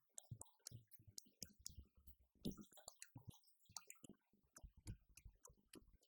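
Faint, irregular drum strikes from an electronic drum kit being played, low thuds mixed with sharp stick clicks several times a second.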